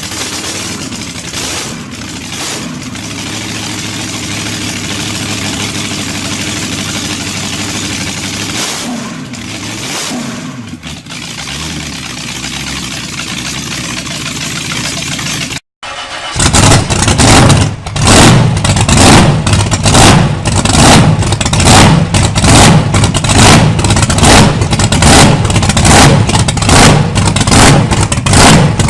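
A large engine running, its pitch gliding up and down as it revs a few times. After a sudden break about halfway through, a much louder engine pounds in a slow, even rhythm of about two beats a second.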